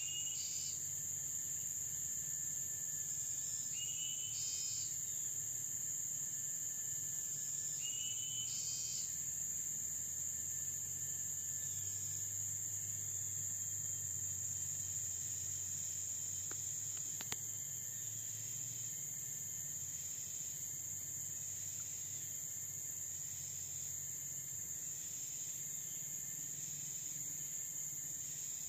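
Tropical forest insects keep up a steady, high-pitched chorus. A short rising animal call repeats about every four seconds during the first ten seconds, and a single click comes about seventeen seconds in.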